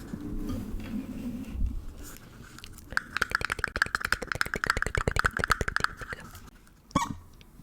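Close-miked ASMR trigger sounds on an object: a soft crackling rustle, then about three seconds in a fast run of sharp clicks, about ten a second, for about three seconds, ending with a single knock.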